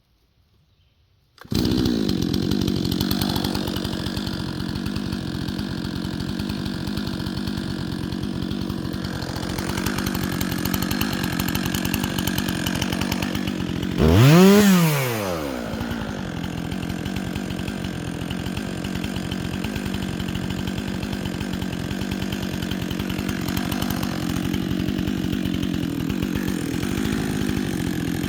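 Chainsaw running steadily at high speed. It comes in abruptly about a second and a half in, and about halfway through it briefly revs higher and drops back.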